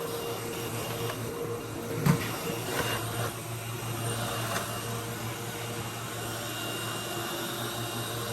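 Vacuum cleaner running with a steady motor hum. There is a sharp knock about two seconds in.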